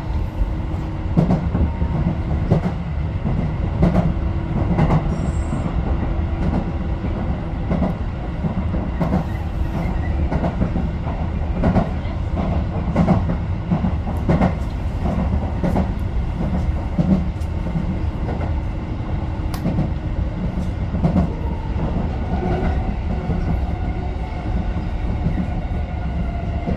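Tobu 10030-series electric commuter train running along the line, heard from inside the lead car: a steady rumble with repeated clicks of the wheels over rail joints. A faint tone from the drive rises in pitch near the end.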